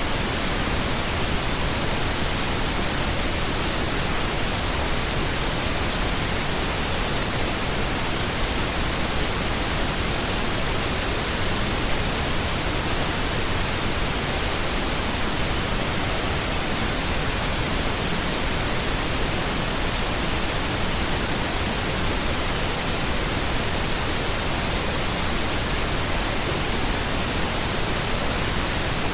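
Steady synthetic pink noise: an even, unchanging hiss with a soft, deep rush, without breaks.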